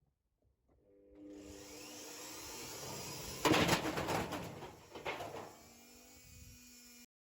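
Washing machine starting to spin, its motor humming with a whine that rises as the drum speeds up, then loud banging and clattering about halfway through, settling to a steady hum before cutting off suddenly.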